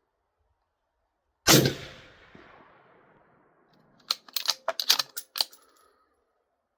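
A single rifle shot from an Accuracy International AT bolt-action rifle, its report fading over about a second. About two and a half seconds later comes a quick run of sharp metallic clicks as the bolt is worked to chamber the next round from the steel magazine.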